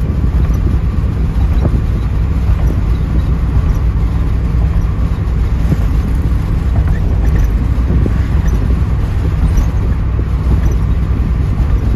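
Steady low engine drone and road noise of a 1984 Pontiac Trans Am's V8, heard from inside the cabin while cruising on the road.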